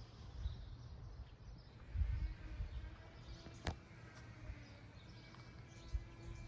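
Quiet outdoor ambience: a low, gusty rumble of wind on the microphone with birds chirping faintly, and one sharp click a little over halfway through.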